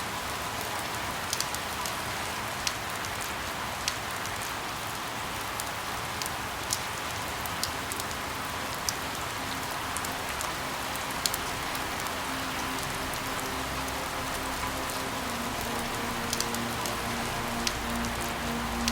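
Steady rain falling, with sharp single drops tapping now and then. Soft held tones come in faintly during the second half.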